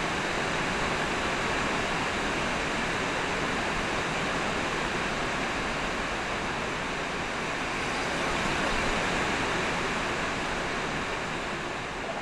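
Steady rain falling, an even hiss with no breaks that swells slightly about nine seconds in.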